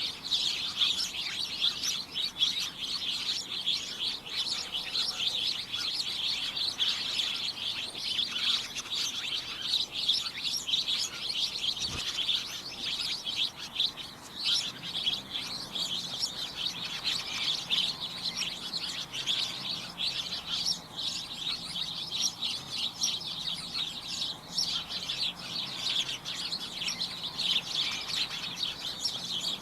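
A flock of small birds chirping continuously, many short, overlapping high chirps forming a dense, busy chorus.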